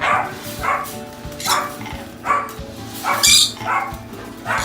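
An animal's short, loud calls repeated about eight times in quick succession, less than a second apart, with faint background music underneath.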